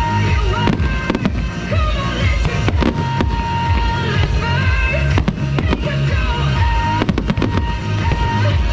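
Fireworks show bursts going off repeatedly, with tight clusters of rapid bangs about five and seven seconds in, over music playing throughout.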